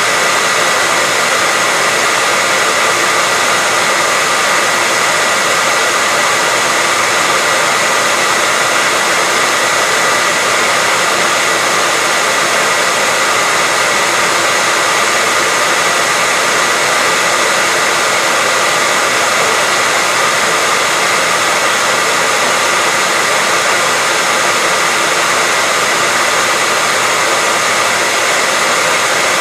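Hair dryer running continuously at a steady speed: an even rushing of air with a constant high whine from the motor and fan.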